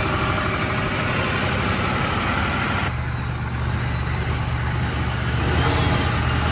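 Ford 7.3 IDI V8 turbo diesel running just after catching on its first start after sitting for years. It runs fast at first, then settles about three seconds in to a steadier, lower note, and a faint turbo whistle comes in near the end.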